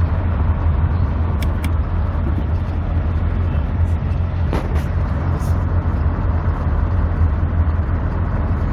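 Honda CR-V driving with its doors removed: a steady low rumble of engine, tyres and wind coming through the open sides of the cabin, with a few brief clicks.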